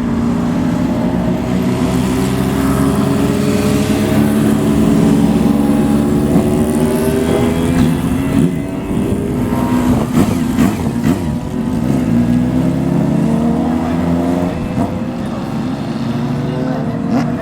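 Old motorcycles ride past one after another, loud exhaust notes rising and falling as the engines rev and pull away.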